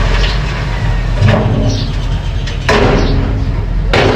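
Mini bulldozer's engine running with a steady low hum, broken by three loud knocks or scrapes about a second and a half apart.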